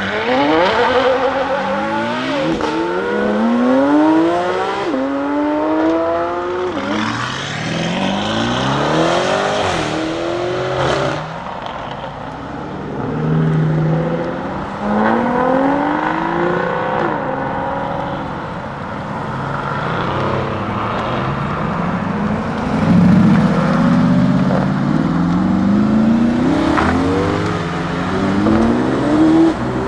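Lamborghini Huracán STO's naturally aspirated V10 accelerating hard, its pitch climbing and then dropping sharply at each upshift, in several runs through the gears.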